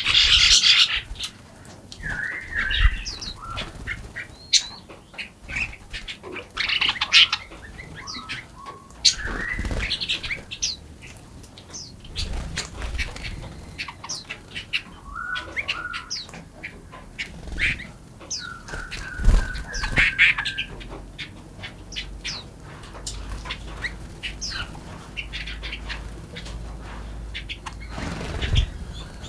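Small songbirds chirping and calling in short, repeated phrases, with a loud rustle at the start and a few brief low thumps.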